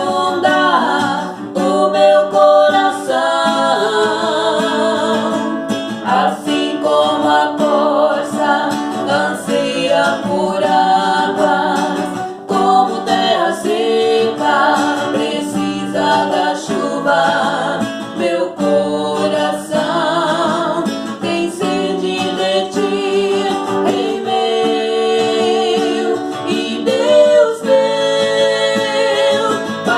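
Gospel praise song sung with guitar accompaniment; the voice holds long notes with vibrato.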